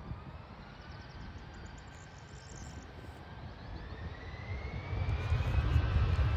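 Jet engines of an Airbus A320 airliner, a steady rush with a thin whine that rises in pitch and grows louder over the last couple of seconds.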